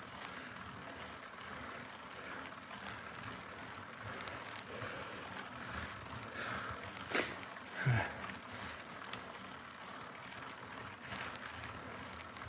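Mountain bike being ridden: steady tyre and wind noise with faint clicks from the bike, and a sharp knock followed by a low thump a little past halfway.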